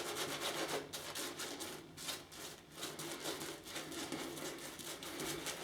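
Wolf Whiskers shaving brush working shaving cream into a lather on the face: faint, repeated soft brushing strokes.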